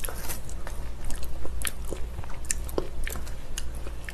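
A person chewing a mouthful of spicy cold noodles close to the microphone, with many small, irregular wet clicks and smacks.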